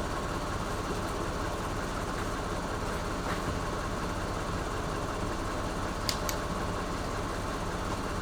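Steady vehicle engine and road noise, a low even rumble with a faint steady whine, broken by two small clicks about six seconds in.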